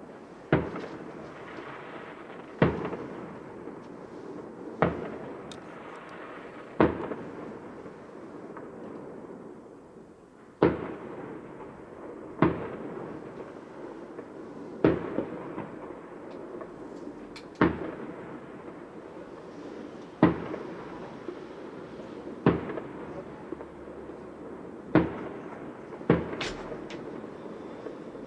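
Fireworks bursting one after another, a sharp bang about every two seconds, each followed by a fading rumble, over a steady background of noise.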